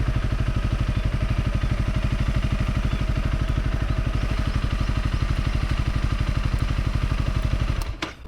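Honda CRF250 Rally's single-cylinder four-stroke engine idling with a steady, even beat. It cuts off suddenly with a click near the end.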